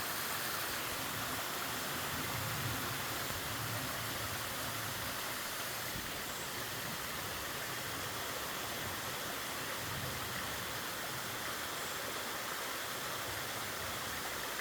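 Mountain stream water flowing over rocks: a steady, even rush.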